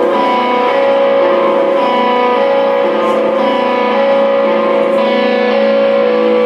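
A rock band's song played live, carried by guitar with long held notes and chords.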